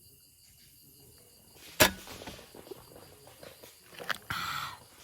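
A single sharp click or knock about two seconds in, light handling noises, then a brief hiss for about half a second near the end, over steady insect chirring.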